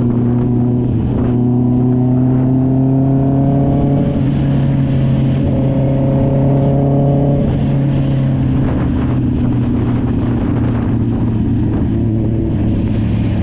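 Honda CB650R's inline-four engine through an SC-Project aftermarket exhaust, running under way as the motorcycle rides. Its pitch climbs slowly twice under throttle and drops back after the second climb, about halfway through.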